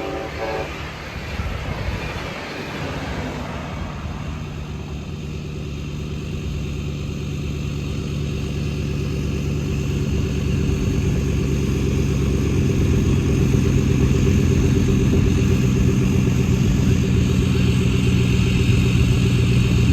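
Diesel freight train passing close by just after sounding its horn: a steady low engine drone with a rumble that grows slowly louder, then cuts off suddenly at the end.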